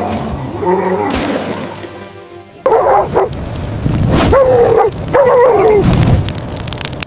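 A dog barking and yelping in a run of short wavering calls, over background music.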